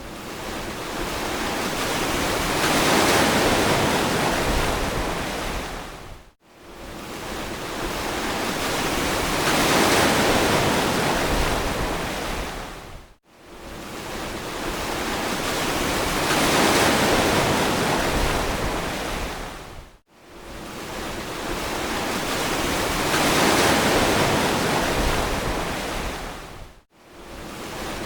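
Ocean surf washing in and out in slow, even swells, four of them, each rising over a few seconds and fading almost to nothing before the next, about seven seconds apart.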